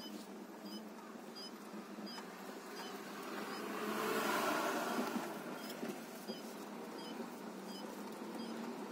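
A road vehicle passing by: its noise swells to a peak about four to five seconds in and then fades. Faint high ticks repeat about every half second throughout.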